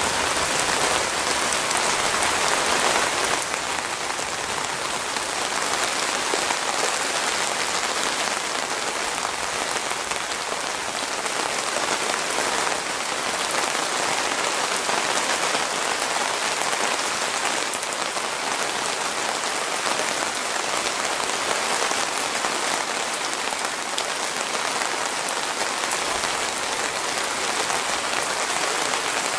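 Thunderstorm rain falling steadily, a dense even hiss, a little louder in the first few seconds.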